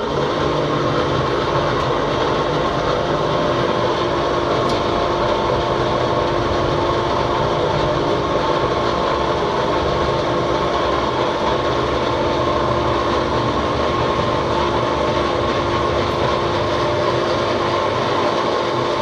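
A motor or engine running steadily at constant speed, with a continuous drone and hum that does not change pitch.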